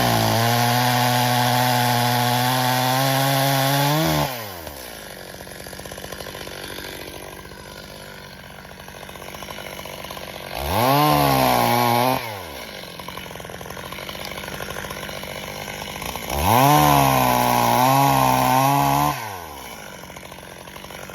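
Stihl MS 270 two-stroke chainsaw revved to full throttle three times and dropping back to idle in between. Each run rises sharply in pitch and falls away when the throttle is released. The first run lasts about four seconds, the second a second and a half and the third about three seconds, with its pitch wavering.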